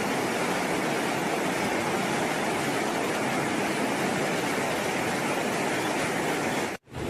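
Steady rush of a fast-flowing river running high. It cuts off abruptly near the end.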